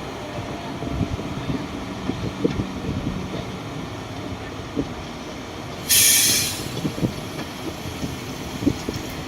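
Heavy diesel earthmoving machinery running steadily with scattered knocks and clanks. About six seconds in there is a short, loud hiss of released air, as from an air brake.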